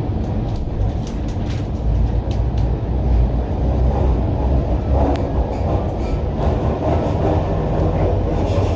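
Inside an MTR Island Line Q-Train metro car running between stations in tunnel: a steady low rumble of wheels on rail that grows a little louder about two seconds in, with scattered sharp clicks and rattles.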